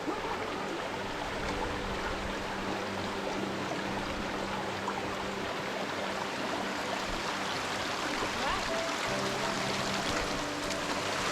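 Fresh water stream running steadily, with faint sustained music notes underneath.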